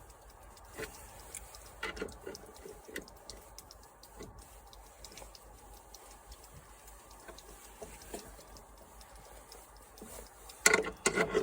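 Hand tools working a bolt on a lawn mower: scattered light metallic clicks and ticks, then a quick run of louder clanks near the end.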